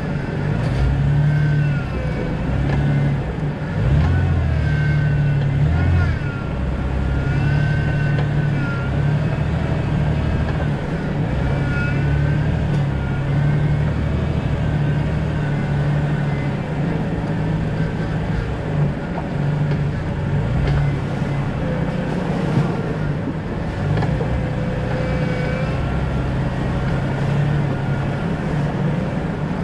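A 2000 Jeep Cherokee XJ driving at a steady pace, with continuous low engine and road noise. Thin, wavering high tones come and go over it.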